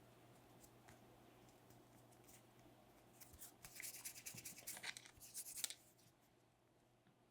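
Clay being worked by hand or with a sculpting tool: a couple of seconds of dry scratching and rubbing starting about three seconds in, with a few faint clicks before it.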